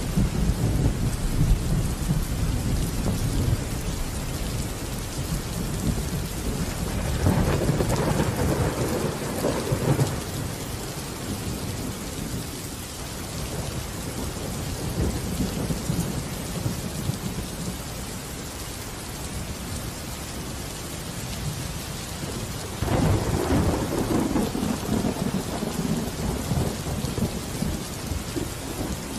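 Rain falling steadily, with low rumbles of thunder. The rain swells louder twice: the first swell breaks off suddenly about ten seconds in, and the second starts abruptly some six seconds before the end.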